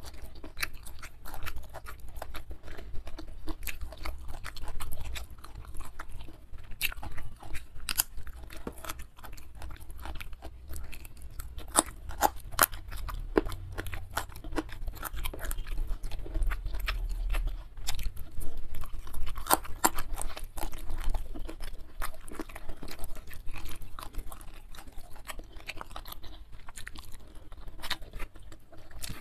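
Close-miked chewing and crunching of a mouthful of rice, sambal and young jengkol beans, with many short sharp clicks of bites.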